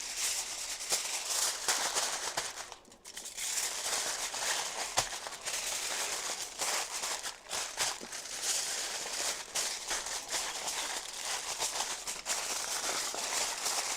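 Aluminium foil crinkling irregularly as it is folded and pressed by hand around a paper-wrapped joint of meat.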